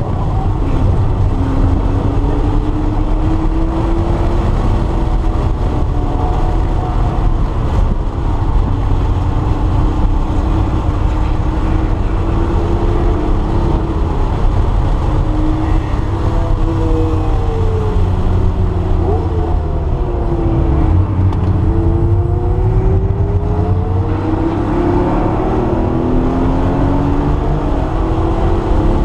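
Porsche 911 Carrera's air-cooled flat-six heard from inside the cabin under hard track driving, its pitch climbing through the revs and dropping back at each gear change. About two-thirds of the way through, the pitch falls and climbs steeply again. Road and wind noise runs steadily underneath.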